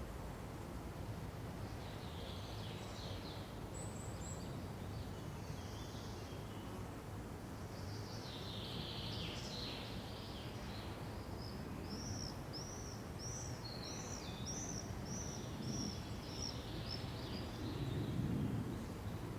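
Songbirds calling over a steady low background hiss, with a run of about a dozen repeated high chirps, roughly two a second, in the second half. A brief low swell near the end.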